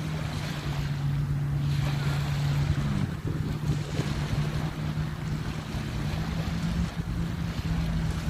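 Surf and wind on the microphone at the shore, with a steady low engine hum throughout.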